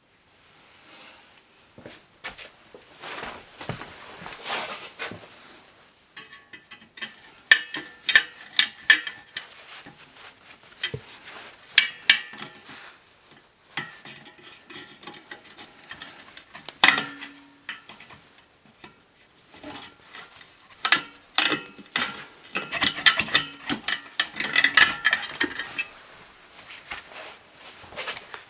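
Metal tools and parts being handled during an engine strip-down, clinking and rattling in irregular bursts of sharp clicks, some with a short metallic ring.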